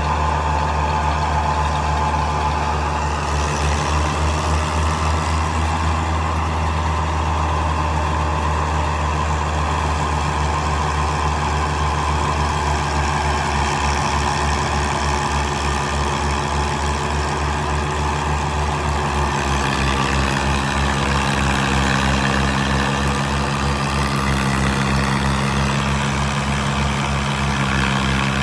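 Combine harvester's diesel engine running steadily with a low, pulsing throb. About 19 seconds in, its note shifts slightly.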